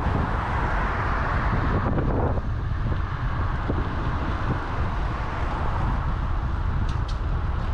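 Wind buffeting the microphone of a camera on a moving bicycle: a steady low rumble with road and traffic hiss, the hiss brighter for the first two seconds, then easing off.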